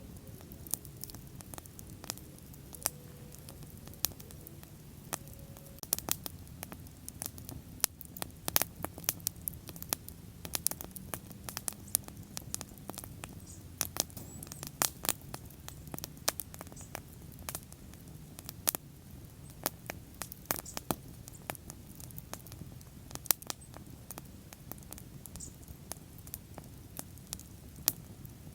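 Bonfire crackling: irregular sharp pops and snaps, some much louder than others, over a low steady rumble of the burning wood.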